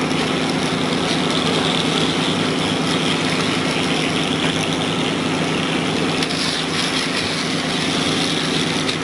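Heavy construction machine's engine running steadily at an even pitch.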